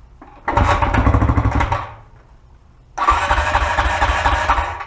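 Dirt bike engine firing up and running briefly in two loud bursts, the second starting abruptly about three seconds in.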